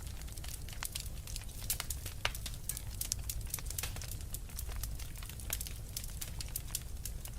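Fire in a fireplace crackling, with irregular sharp snaps and pops over a steady low rumble.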